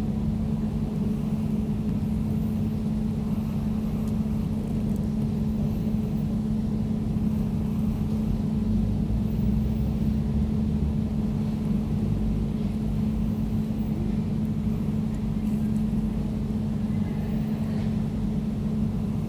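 Air conditioner running steadily: a constant low hum with a strong steady tone, over an even rush of air noise.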